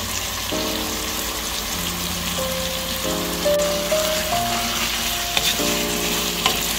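Ground beef and onions sizzling in hot oil in a nonstick frying pan: a steady hiss. Soft background music plays over it.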